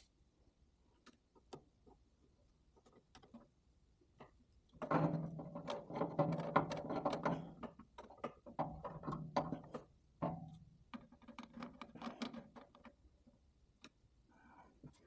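Hand tools working on an engine: scattered light clicks, then a ratchet wrench being cranked in a run of rapid rasping clicks about five seconds in, and again more softly a little later.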